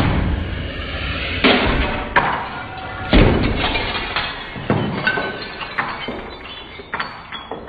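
A string of sharp, irregularly spaced crashes and knocks, each trailing off, some with a glassy clatter.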